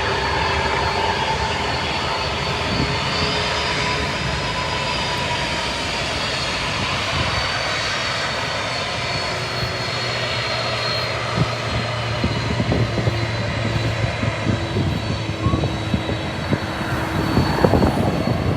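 Amazon Prime Air cargo jet's engines running: a steady rush of jet noise with a high whine over it. Scattered low thumps come in during the second half.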